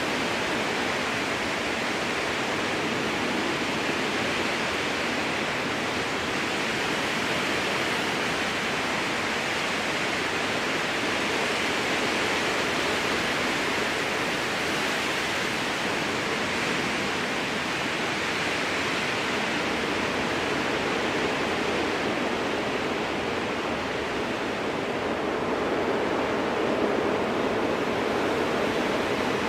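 Strong wind blowing through spruce trees: a steady rushing noise that slowly swells and eases.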